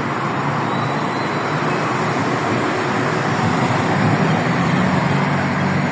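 Steady road traffic on a busy highway, cars and heavier vehicles passing, with a low engine hum growing louder about halfway through.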